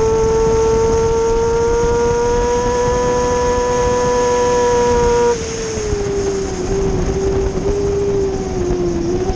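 Sportbike inline-four engine, a Kawasaki ZX-636, pulling hard at high revs with its pitch slowly climbing under wind rush. About five seconds in the throttle is shut, and the engine drops in level and falls in pitch in small steps as it slows.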